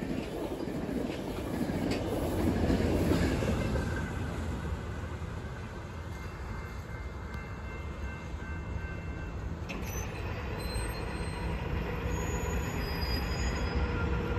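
Metrolink commuter train's bilevel coaches rolling past on the rails. The rumble of the wheels swells over the first few seconds, then fades to a low steady rumble as the train moves away. Faint thin high squeals come in during the later part.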